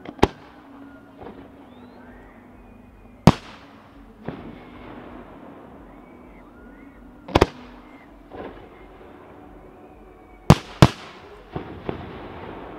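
Aerial firework shells bursting overhead: sharp bangs every three to four seconds, two of them close together near the end, with softer, more distant reports in between.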